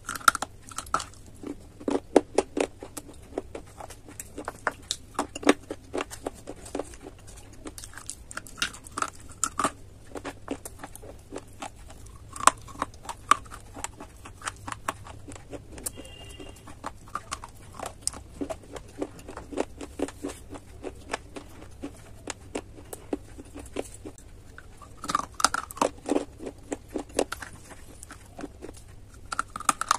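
Close-miked biting and crunching of baked edible clay pipe pieces. Bursts of sharp crunches come every few seconds, between stretches of quieter chewing.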